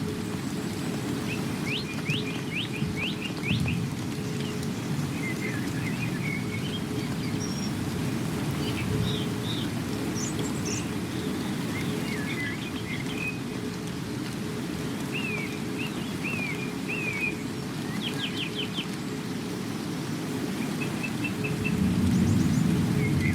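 Songbirds chirping in short scattered calls, quick trills and brief rising notes over a steady low rush of rain. A low rumble swells near the end.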